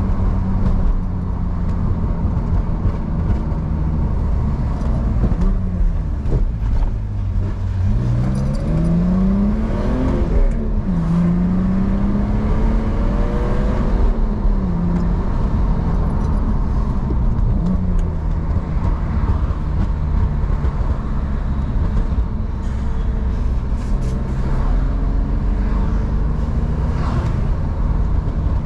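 BMW E46 engine and exhaust under way. The engine climbs in revs about a quarter of the way in, drops briefly as if shifting gear, holds, then eases back down, with another small rise and fall a little later.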